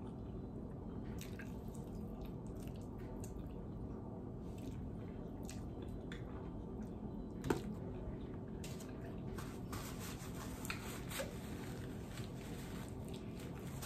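Close-miked eating sounds: wet chewing and lip smacks on chicken wings, with sucking of sauce off the fingers, over a steady low room hum. A sharper click comes about seven and a half seconds in, and the small wet clicks grow denser near the end as a paper napkin is pressed to the mouth.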